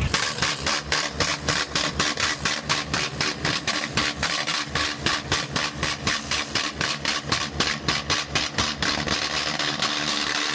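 Diesel tractor engine running with a heavy, even exhaust beat, about four to five pulses a second, which smooths into a steadier sound near the end.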